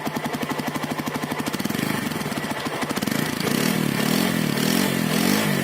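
TVS Apache RTR 160 4V motorcycle's single-cylinder four-stroke engine idling with an even pulse through its exhaust, then revved in quick repeated throttle blips from a little past halfway, the pitch rising and falling with each blip.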